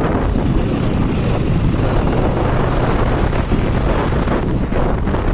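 Wind buffeting the microphone on a moving motorcycle: a steady low rumble of wind noise.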